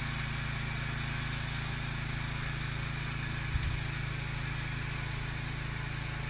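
Small tractor engine running steadily at a low, even speed while towing, with one brief low bump a little over halfway through.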